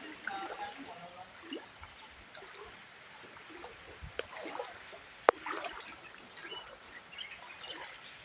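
Floodwater trickling and flowing, with one sharp click about five seconds in.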